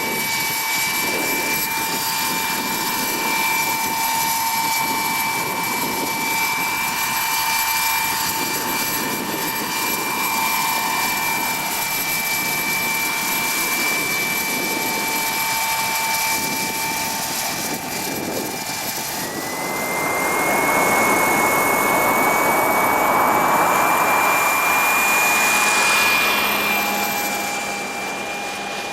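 Model helicopter's small WREN gas turbine whining steadily, with rotor noise underneath. About two-thirds of the way through, the whine rises in pitch and the sound grows louder and rougher, then it eases near the end.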